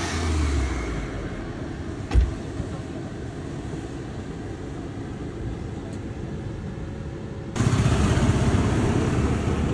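Car sounds: a running car with rumbling engine and road noise, a sharp thump about two seconds in, and an abrupt jump to a louder car sound about three-quarters of the way through.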